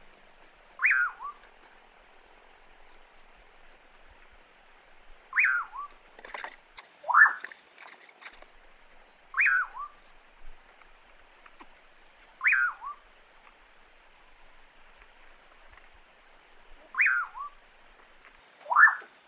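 A bird repeating a short whistled call that falls in pitch, about every four seconds, with a second, different call heard twice. A faint steady background hiss lies under the calls.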